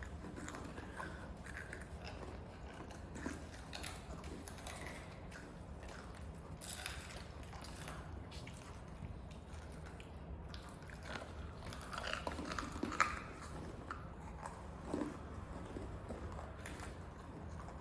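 Faint chewing and crunching of food, with small scattered clicks and crackles that grow a little louder a little past the middle.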